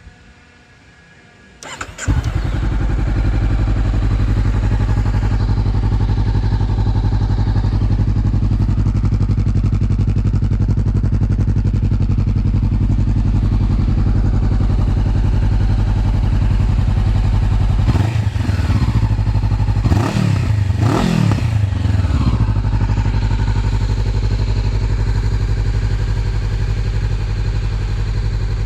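Honda CB500X parallel-twin engine through a Yoshimura aftermarket exhaust, starting after a brief crank about two seconds in, then idling steadily. About two-thirds of the way through, the throttle is blipped a few times, the revs rising and falling before it settles back to idle.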